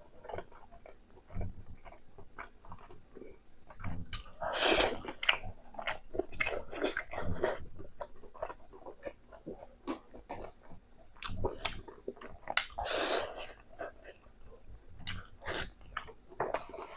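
A person chewing and biting pork close to the microphone, with irregular wet smacks and clicks of the mouth. Two louder noisy mouth sounds come about five seconds in and again about thirteen seconds in.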